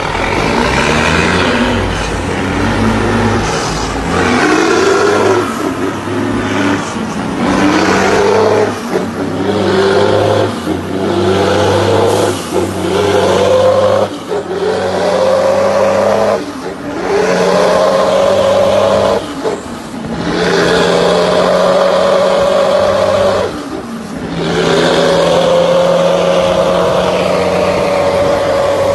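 Truck engine pulling hard through the gears: the pitch climbs and levels off, then dips briefly at each shift, about seven times.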